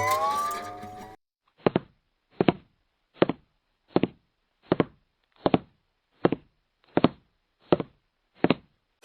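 Music that cuts off about a second in, followed by ten even, dry knocks, about one every three-quarters of a second.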